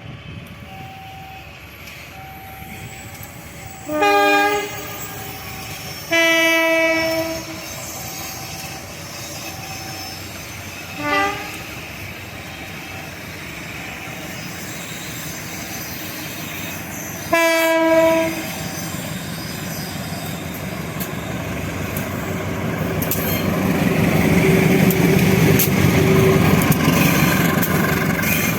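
Train horn sounding four times: a short blast about four seconds in, a longer one about six seconds in, a brief fainter one around eleven seconds, and another about seventeen seconds in, over an alarm beeping in two alternating tones that stops around twelve seconds. Then the train draws near and passes, its wheel and engine noise rising to its loudest near the end.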